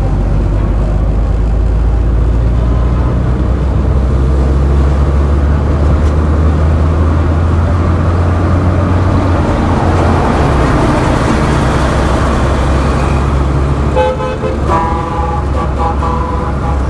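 Road traffic with a steady low engine rumble. About three seconds before the end, vehicle horns begin honking in a string of short blasts.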